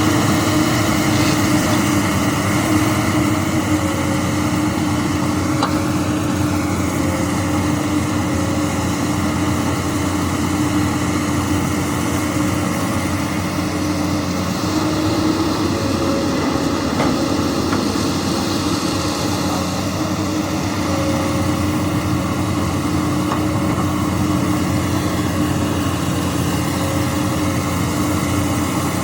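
Komatsu PC200 excavator's diesel engine running steadily under working load, with a strong steady hum. Its pitch bends briefly twice, about six seconds in and again near the end.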